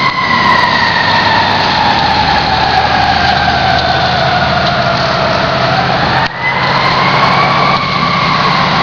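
Fire engine's siren wailing in a slow, steady rise and fall: the pitch sinks gradually, then climbs again after about six seconds. The truck's engine rumbles underneath. The sound briefly drops out just after six seconds.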